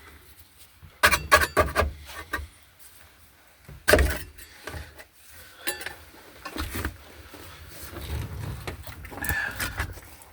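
Irregular knocks and clatter of parts being handled inside a stripped car body: a quick run of strikes about a second in, one sharp knock about four seconds in, then lighter scattered knocks and rustling.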